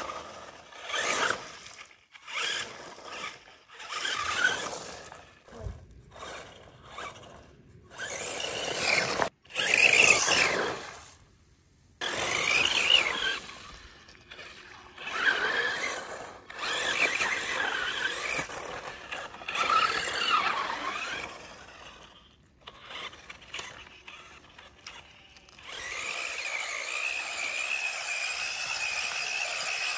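Electric motor and drivetrain of a radio-controlled S-Max truck whining in repeated bursts as it is driven, the pitch rising and falling with the throttle, mixed with the noise of the tyres on the ground. From a few seconds before the end a steady high whine holds.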